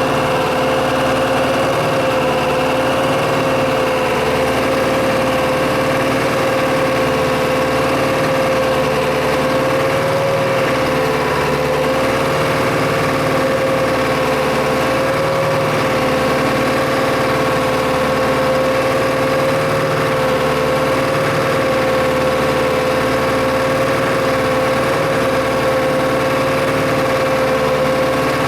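Tractor diesel engine running at a steady speed, with a constant whine over the engine note.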